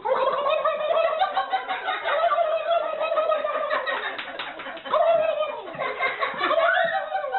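A person laughing hard in a high-pitched voice, in long, nearly unbroken peals with a short break about two thirds of the way through.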